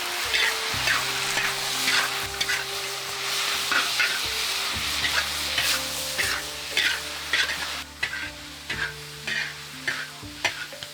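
Food sizzling and frying in a hot pan while it is stirred, with repeated scrapes of a utensil against the pan. The sizzle eases about eight seconds in. Soft background music with held notes plays underneath.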